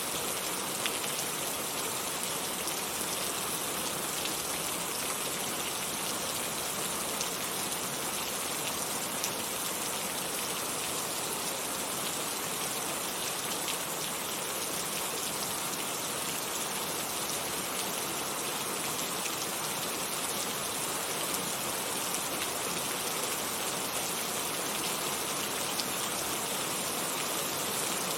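Heavy rain falling steadily, a dense even hiss with scattered individual drop impacts.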